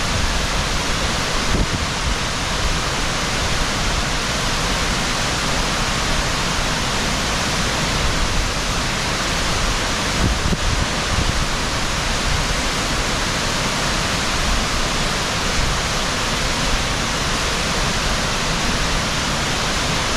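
A waterfall with a steady, loud rush of falling water that does not change or stop.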